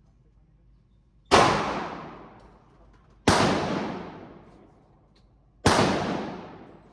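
Three gunshots, about two seconds apart, each a sharp crack with a long echoing tail.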